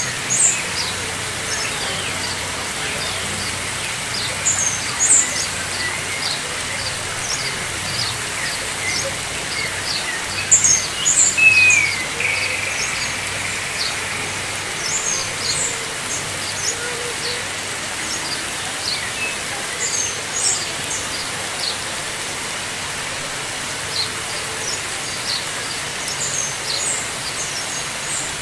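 Small birds chirping, short high calls scattered throughout with a louder call about eleven seconds in, over a steady hiss of running water.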